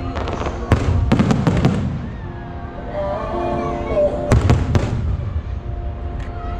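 Aerial firework shells bursting overhead: clusters of sharp bangs about a second in and again just past four seconds, with low rumbling booms under them. Music plays in the background.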